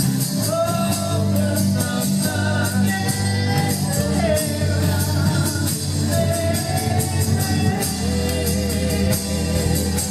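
A live worship band playing, with drums, guitar and keyboards, and voices singing over them with a wavering pitch.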